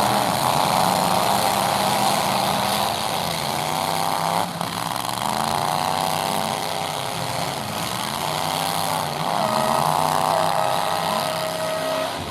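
Full-size pickup truck engines in a demolition derby, repeatedly revving up and easing off, their pitch rising and falling.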